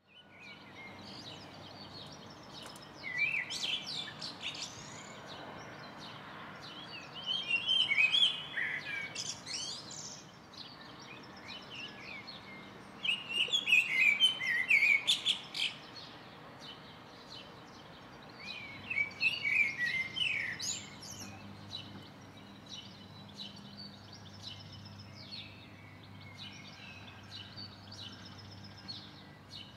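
Songbirds singing in several loud bursts of rapid chirps and whistles a few seconds apart, with fainter chirps between them, over a faint steady low hum.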